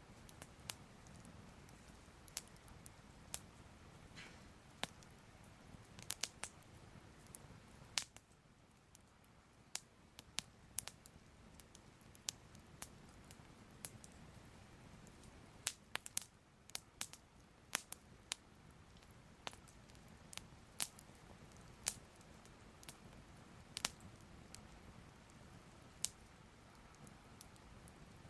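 Soft crackling fire: sharp irregular pops and snaps, about one a second and sometimes two in quick succession, over a low steady hum.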